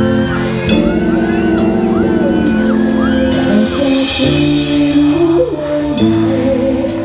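A rock band playing live: sustained guitar and bass notes, a repeated arching melodic figure, and cymbal and drum hits.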